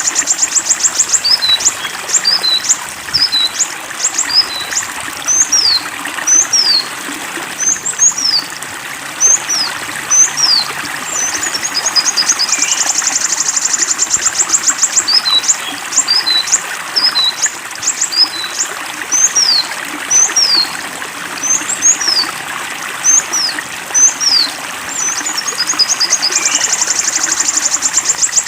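Songbird masteran recording: a fast high trill followed by a run of short, sharply falling whistled notes, the same phrase sequence repeating about every 14 seconds, over steadily trickling water.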